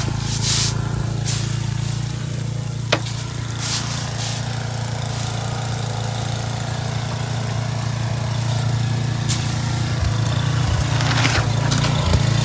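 Gas snowblower engine running steadily, with a few brief hissing bursts and clicks over it.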